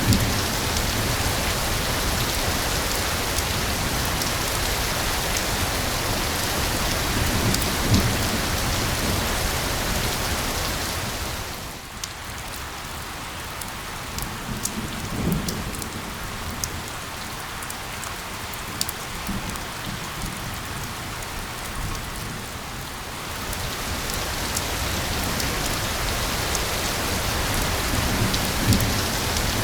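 Steady heavy rain hissing. It eases for about ten seconds in the middle, when separate drops can be picked out, then comes back to full strength.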